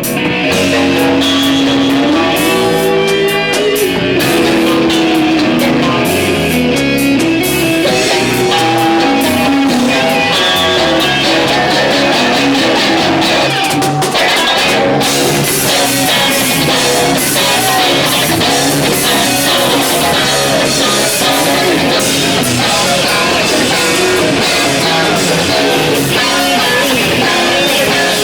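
Rock music played on guitar and drum kit, loud and continuous.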